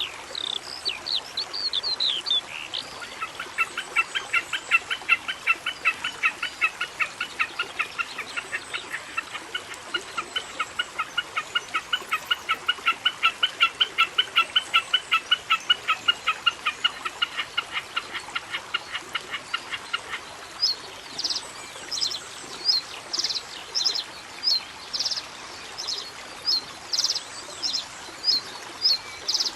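Birds calling: a long run of rapid, evenly repeated notes that stops about two-thirds of the way through, then sharp high chirps about once a second.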